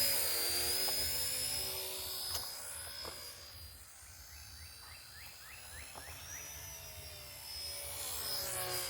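RC helicopter flying, its motor and rotor whine bending up and down in pitch as it moves about. It grows fainter around the middle and louder again near the end.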